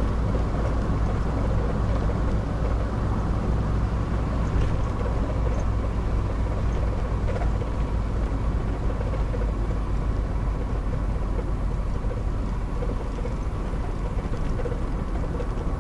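Thirty-year-old four-wheel drive cruising, its engine and tyre noise heard from inside the cabin as a steady, even drone.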